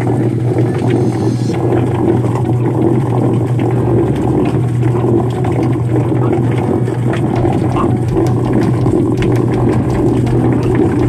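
Homemade chicken plucker built from a washing machine running: a steady motor hum under a dense churning rattle, with scattered light knocks in the second half.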